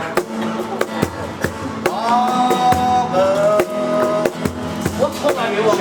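A band playing: a drum kit keeps a regular beat under guitar chords, with a held melody line that slides into long sustained notes from about two seconds in.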